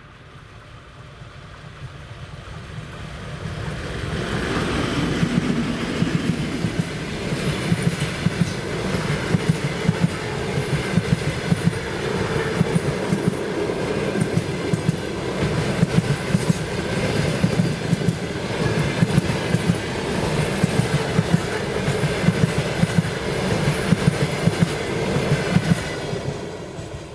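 Passenger train passing at speed. The sound builds over the first few seconds into a steady rumble with a rapid run of clicks from the wheels crossing rail joints, then falls away near the end.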